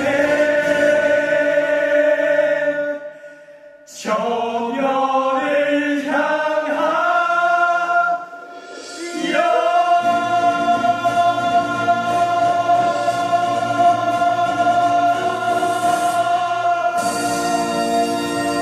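A group of voices singing with musical accompaniment: two short phrases that fall away about three and eight seconds in, then a long held final chord over the second half.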